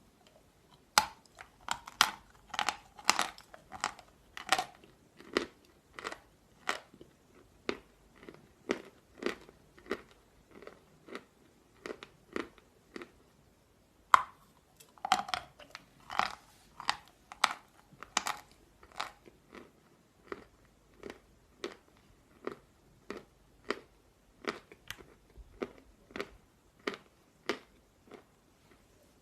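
Close-up crunching of soft natural chalk being bitten and chewed. A sharp snap of a bite comes about a second in and again about halfway through, each followed by steady crunching chews that thin out as the mouthful breaks down.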